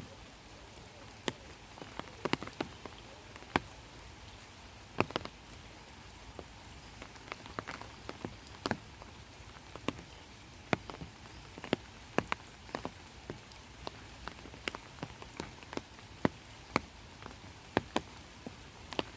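Rain falling: a steady hiss with single drops landing close by as sharp, irregular ticks, several a second.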